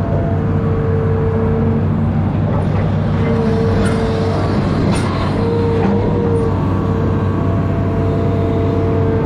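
Amphibious excavator's diesel engine running steadily at working revs, with a low hum under a higher steady whine that cuts in and out several times as the machine works.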